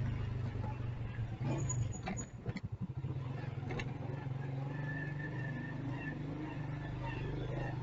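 Motorcycle engine running with a steady low hum, briefly breaking into a slow, uneven chugging about two to three seconds in.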